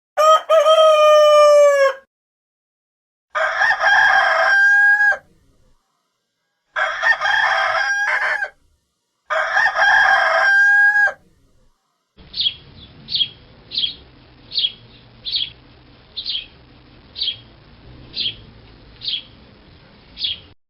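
Rooster crowing several times, each crow about two seconds long. Then, from about twelve seconds in, a series of about ten short high chirps, roughly one a second, over a faint hiss.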